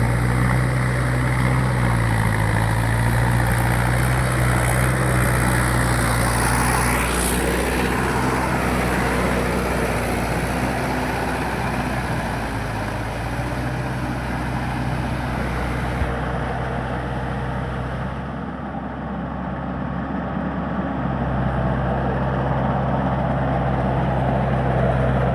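Mahindra 585 tractor's diesel engine running steadily, its low hum easing a little through the middle and coming back up near the end.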